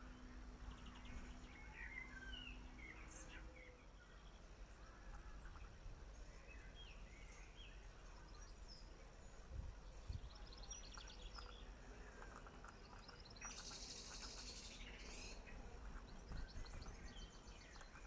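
Faint chirps and short twittering calls of small garden birds, coming and going throughout, over a steady low rumble, with a couple of soft low thumps near the middle.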